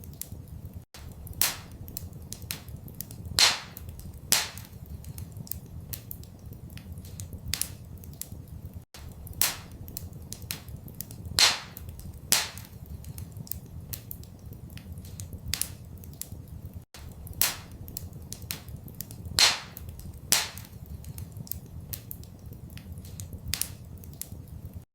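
Wood fire crackling in a fireplace: frequent small crackles and a few loud sharp pops over a low steady rumble. The same pattern of crackles and pops repeats every eight seconds, as a loop.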